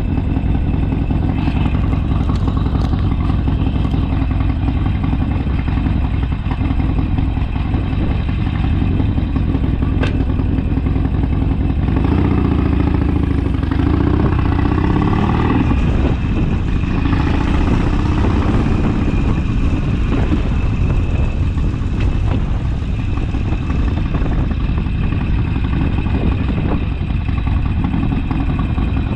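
Harley-Davidson Sportster's air-cooled V-twin engine running steadily on the move, with a heavy low rumble; about halfway through, the engine note shifts up and down for a few seconds before settling again.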